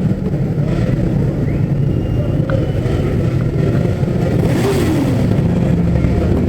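Several motorcycle engines running loudly and continuously, with some revving.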